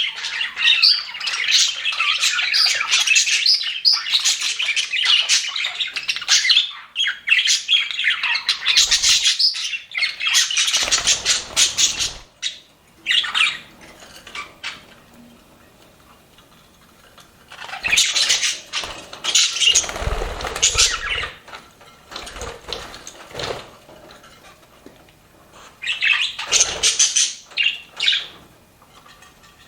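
A flock of budgerigars chattering and chirping in dense bursts, with a lull of a few seconds about halfway through before the chatter starts up again.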